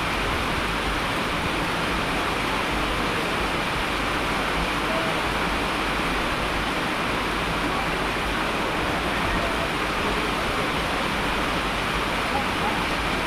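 Steady heavy rain, an even unbroken hiss with no pauses or changes.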